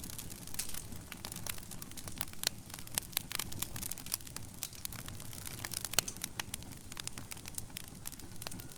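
Wood fire crackling in a fireplace: many irregular sharp pops and snaps over a low, steady rumble of flame, with one louder pop about six seconds in.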